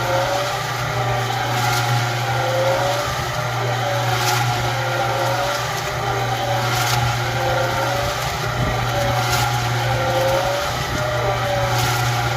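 Concrete mixer running, its drum turning with a steady low hum and a wavering whine that rises and falls with each turn. A short knock comes about every two and a half seconds.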